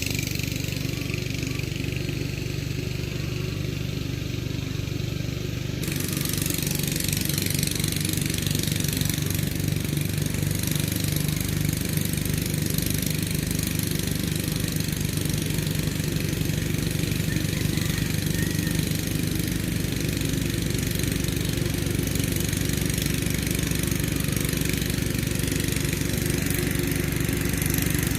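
Kubota tractor's diesel engine running steadily, working at plowing; the sound fills out and grows slightly louder about six seconds in.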